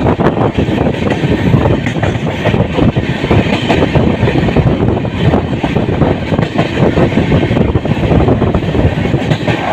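Passenger express train running at speed, heard from on board: a steady loud running noise of wheels on track, with dense irregular clatter and rattling.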